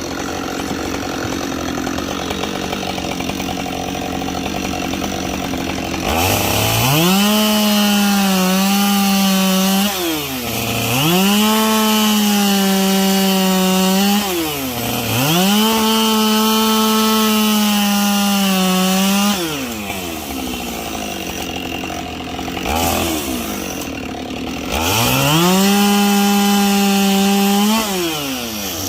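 Two-stroke chainsaw bucking logs into firewood: it idles at first, then is run up to full throttle four times, each cut a few seconds long with a steady high engine note, dropping back to idle between cuts and for a longer pause before the last one.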